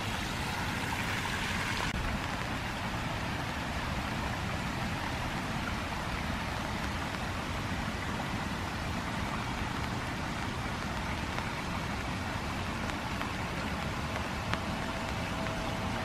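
Steady wash of rain falling on leaf litter and a rain-swollen creek running, with no distinct events.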